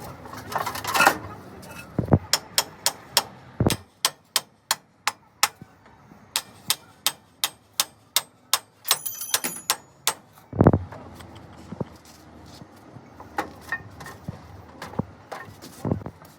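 Hammer striking steel in a quick run of sharp blows, about two to three a second, then slower strikes with a brief metallic ring near the end.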